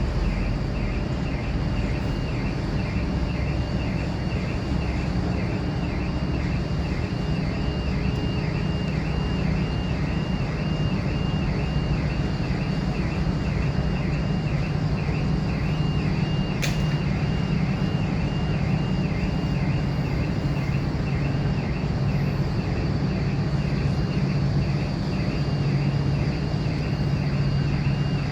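Steady machinery rumble with a low hum, under a repeating high-pitched electronic beep about twice a second. One sharp click about seventeen seconds in.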